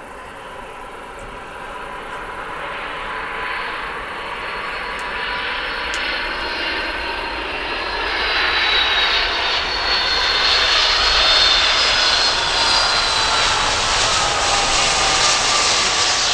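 Jet airliner's engines growing steadily louder as the aircraft approaches, a rushing noise with high whining tones that slowly fall in pitch.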